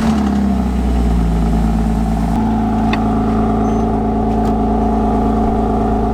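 An engine running steadily with a low rumble, its tone shifting slightly about two and a half seconds in.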